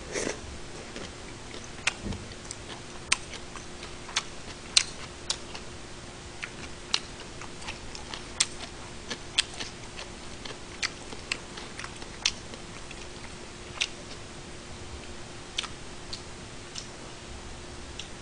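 Close-miked chewing of a mouthful of gimbap: a bite at the start, then sharp, irregular wet mouth clicks and smacks about once a second over a faint steady hum.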